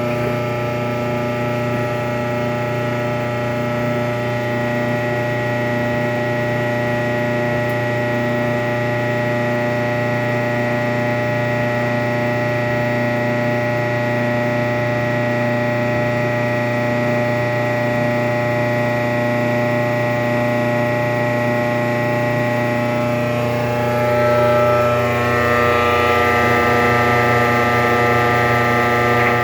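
Kenmore 417.83042300 electric dryer in its start-up noise: a loud, steady drone of many tones that shifts and briefly gets louder about 24 seconds in. The noise lasts only the first half-minute or so and persists although the motor, belt, tension pulley, rear drum bearing and drum felts have all been replaced, so its source is unknown.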